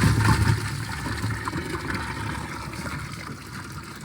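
Water splashing and sloshing, loudest at the start and then settling: a freshly caught crappie thrashing in a makeshift livewell of water.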